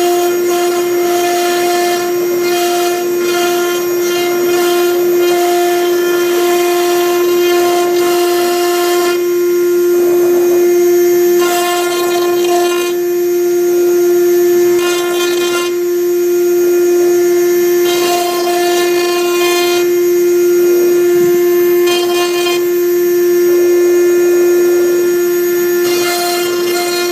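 A CNC router's spindle whines at one steady high pitch while its V-bit engraves into MDF. A rasping cutting noise swells and fades every few seconds as the bit moves between strokes of the letters.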